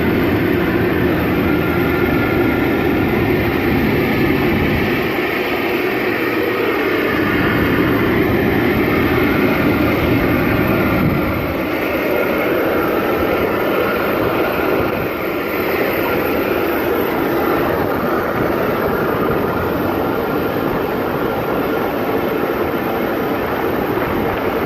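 Steady, loud rushing and humming noise of a parked Airbus A320, its level dipping slightly twice.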